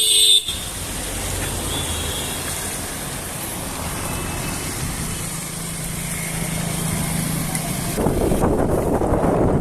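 Steady road traffic noise, with a motor vehicle's engine hum for a few seconds in the middle and a louder rushing noise from near the end.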